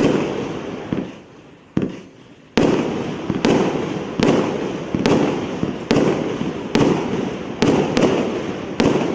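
Multi-shot fireworks cake firing: sharp bangs roughly once a second, each trailing off in a rumbling echo. A weaker bang and a short lull come about a second in, and two bangs come close together near the end.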